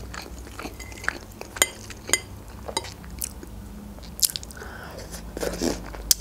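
Close-miked chewing and crunching of a mouthful of Caesar salad, with a few short ringing clicks of a metal fork against the glass salad dish.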